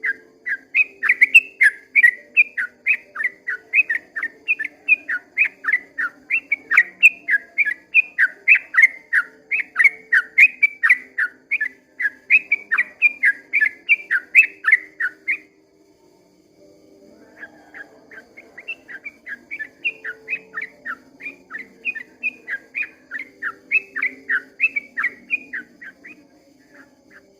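Yellow-vented bulbul (trucukan) singing a long, rapid run of chirping notes, about three or four a second. The song breaks off for a second or two about halfway through, then resumes softly and builds again.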